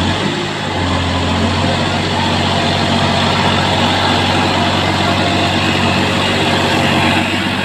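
Massey Ferguson 9500 Smart tractor's diesel engine running steadily.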